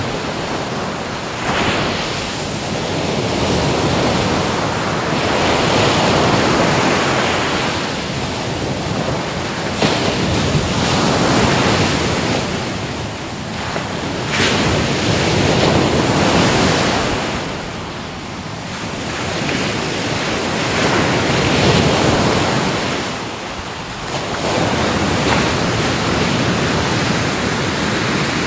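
Ocean waves breaking on a shore, the surf swelling and ebbing every few seconds.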